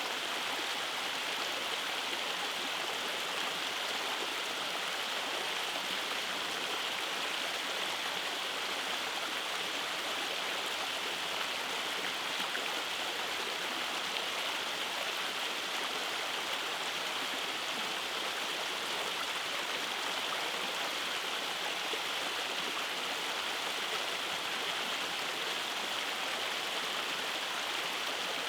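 Rainforest creek running over rock cascades: a steady, even rush of flowing water.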